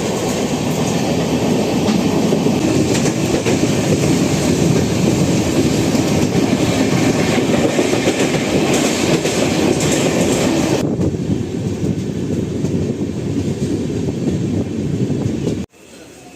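Express train running at speed on the rails: a loud, steady rumble and rattle of wheels and coaches. The upper hiss falls away about eleven seconds in, and the sound cuts off suddenly near the end.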